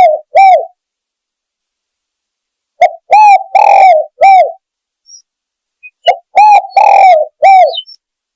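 Spotted dove (tekukur) cooing, played loud as a hunting lure call: phrases of four or five hooked coos, the middle one longest, repeating about every three seconds with silence between.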